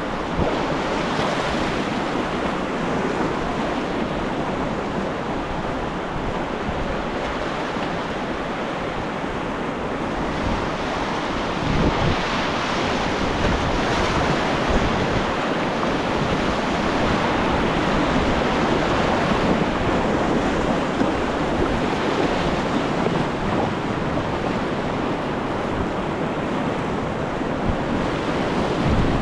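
Whitewater rapids rushing steadily around a kayak running down a river.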